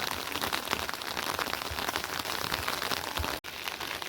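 Steady rain falling, a dense patter of many separate drops, with a split-second break in the sound about three and a half seconds in.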